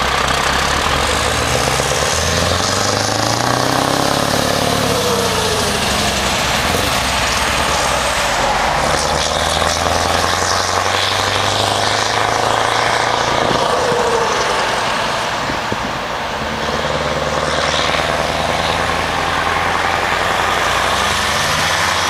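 Scania R500 V8 truck engine running through an open, straight exhaust pipe, revving and driving off: the pitch climbs during the first few seconds, then settles into a steady, even run.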